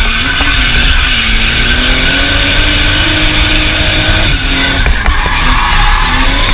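Toyota Supra MK4's 2JZ straight-six engine heard from inside the cabin while drifting, its revs rising and falling, over continuous tyre squeal. A few short clicks come about five seconds in.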